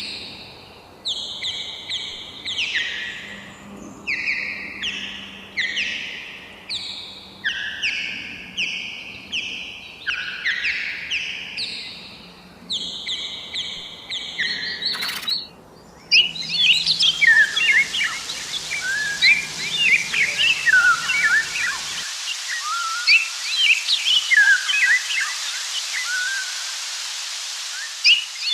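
Birdsong: one bird repeats a short falling phrase of several notes about every second and a half. About sixteen seconds in it cuts suddenly to a dense chorus of many birds chirping over a steady hiss.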